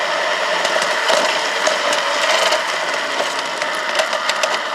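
Garden-railway locomotive running along its track, heard from on board: a steady mechanical whirr of its drive with a rapid, irregular patter of clicks from the wheels running over the rails.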